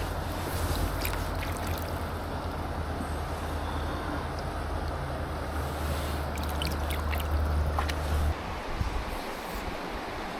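Mountain stream water rushing steadily over rocks, with a low rumble underneath that stops suddenly about eight seconds in and a few small ticks shortly before.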